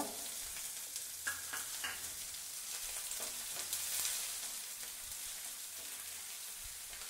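Chopped onions sizzling in hot oil in a frying pan, stirred with a wooden spatula: a steady frying hiss with light scrapes and ticks from the stirring.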